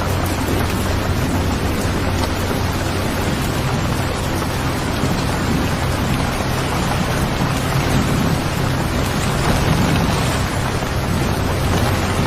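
Steady rain, an even hiss with a continuous low rumble beneath it.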